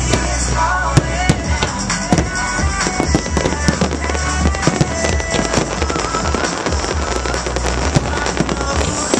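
Aerial fireworks display: a rapid, dense run of bangs and crackling from mortar shells launching and bursting, several reports a second with no let-up. Music plays underneath.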